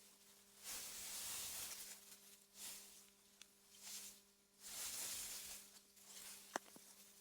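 Faint wind gusting through meadow grass in swells that rise and fall about a second at a time, over a low steady hum. A single sharp click comes near the end and is the loudest moment.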